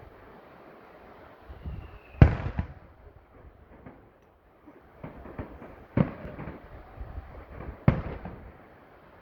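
Fireworks going off: three loud bangs, a couple of seconds in, about six seconds in and near the end, with smaller crackling pops between them.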